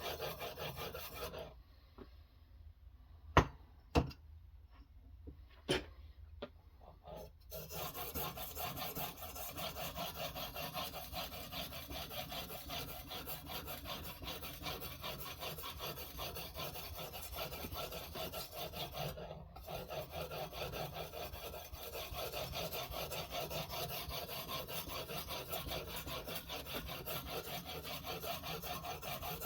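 A knife blade being stroked rapidly back and forth against a sharpening stone in a guided sharpening system: a steady rasping scrape. Early on the scraping stops for about six seconds, with a few sharp clicks, then carries on.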